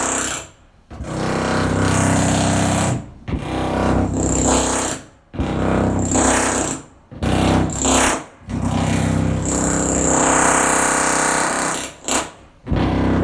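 A motorised machine or power tool run in repeated bursts of one to three seconds, with a steady hum and hiss, stopping briefly between bursts.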